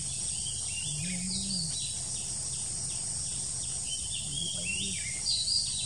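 Short, high, thin bird chirps and quick gliding call notes, repeated every fraction of a second, over a steady high drone of insects.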